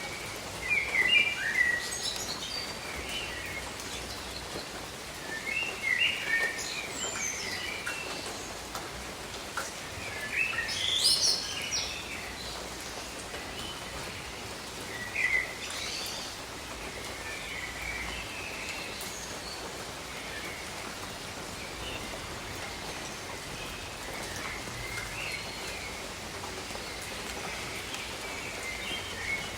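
Steady rain with birds chirping and trilling over it. The calls come in bursts, loudest about one, six and eleven seconds in, and are fewer and fainter later.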